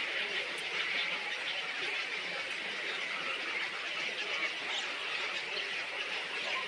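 Dense chorus of many small birds chirping and chattering at once, a steady unbroken twittering.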